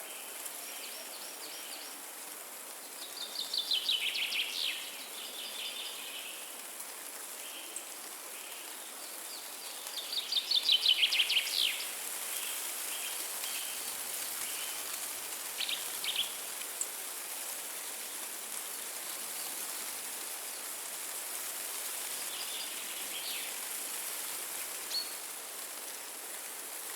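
Forest ambience: a steady wind hiss in the trees, with a songbird singing two loud, rapid trilled phrases, about 3 and 10 seconds in, and a few short, quieter bird calls in between and near the end.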